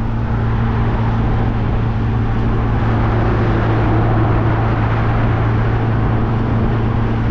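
MG Midget engine running steadily at an even speed on the move, with a constant hum and road and wind noise coming into the open-top car.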